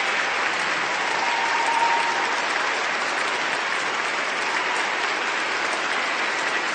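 Sustained applause from a large crowd, many hands clapping at once in a steady, dense wash of sound.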